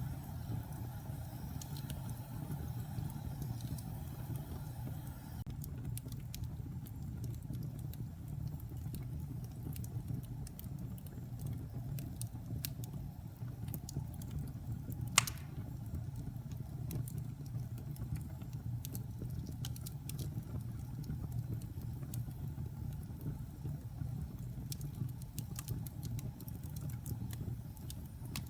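Wood fire burning in a fireplace: a steady low rumble of flames with scattered faint crackles, and one sharp pop about halfway through.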